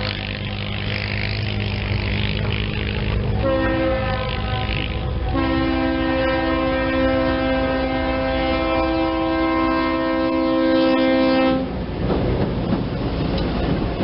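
Air horn of a GE C30-7 diesel locomotive, a chord of several notes: a short blast about three and a half seconds in, then a long blast of about six seconds, over the steady rumble of the engine. When the horn stops, the train is heard rolling along the rails.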